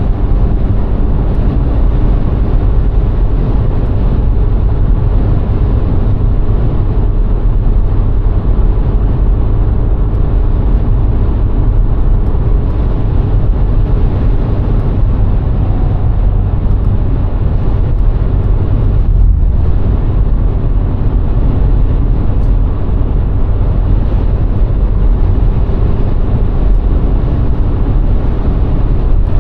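VW Golf IV 1.6 driving at a steady speed: a constant low rumble of tyres on the road and wind, with the engine running evenly underneath.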